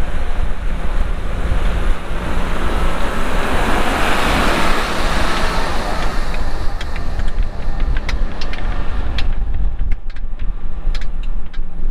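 Vehicle engine running with a steady low rumble. A rushing noise swells to a peak about four seconds in and dies away by about nine seconds, followed by a few sharp clicks.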